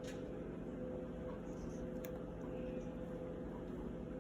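Steady low room hum with a faint steady tone through it, and a faint tick about two seconds in.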